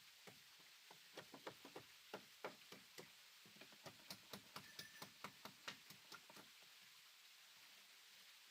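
A quick run of faint, sharp knocks, about three to four a second, starting about a second in and stopping after about five seconds: light tapping on wood during carpentry work.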